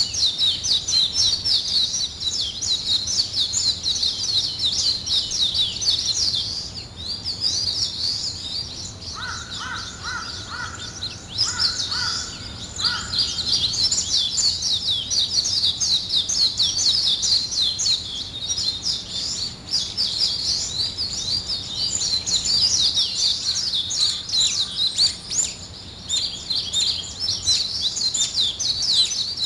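Many small birds chirping and singing at once in a dense, unbroken mass of high, quick notes. A lower call is repeated several times about ten seconds in.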